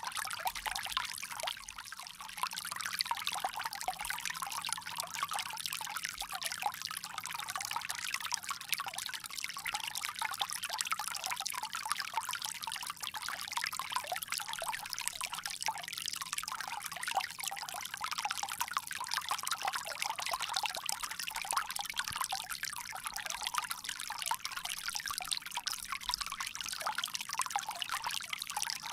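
Water pouring steadily from a bamboo spout, a continuous bright splashing trickle with no pauses.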